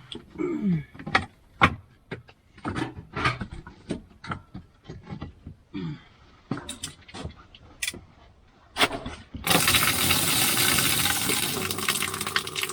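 Firewood logs being moved by hand: irregular wooden knocks and clatters. About nine and a half seconds in, a loud steady rushing noise starts and keeps going.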